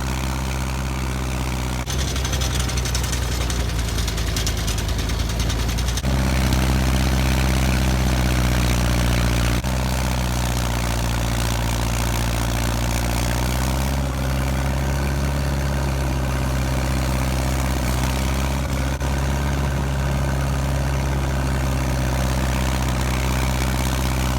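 Massey 50 tractor engine running steadily under load, driving a pull-type snowblower through the PTO; its sound shifts abruptly a few times in the first ten seconds, then holds steady.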